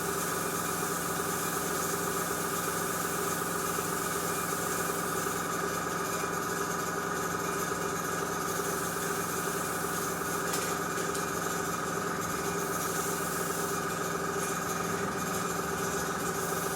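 Small airbrush compressor running with a steady hum, over the hiss of air from the airbrush as it mists a light dusting of white enamel paint.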